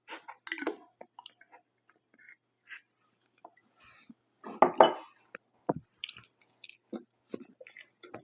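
Close-miked chewing and wet mouth sounds of someone eating pizza: irregular short smacks and clicks, with a louder burst about halfway through.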